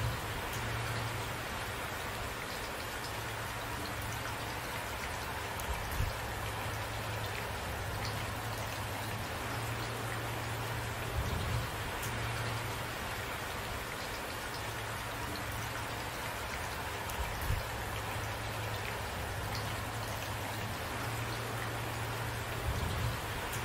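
Steady rain falling, with a few louder drop hits about every five to six seconds.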